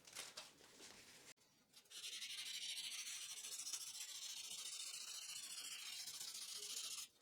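A metal tool part rubbed on 3000-grit abrasive paper laid flat on a marble slab: a few short rubs at the start, then a steady fine hiss from about two seconds in that stops just before the end.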